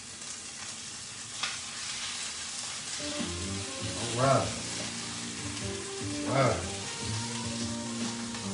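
Salmon sizzling in a frying pan, a steady hiss. Background music comes in about three seconds in.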